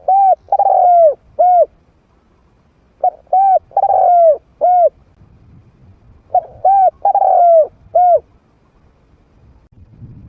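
Spotted dove cooing, the song of a trained decoy bird: three phrases about three seconds apart, each of four coos with the third drawn out and falling in pitch.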